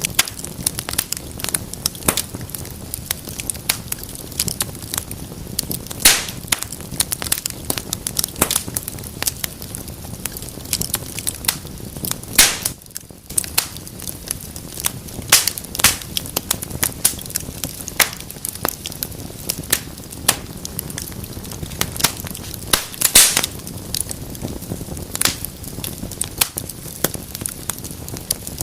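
Wood fire burning in a fireplace: a steady low rumble of flames with continual crackling, punctuated by sharp louder pops.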